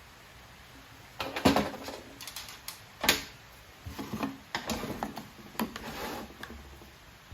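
Irregular clicks, knocks and rustling of hands handling small hedge trimmer parts, with two sharper knocks about a second and a half and three seconds in.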